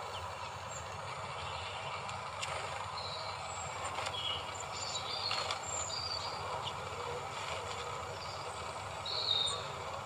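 A few short, high bird chirps scattered through, the loudest near the end, over a steady low background rumble.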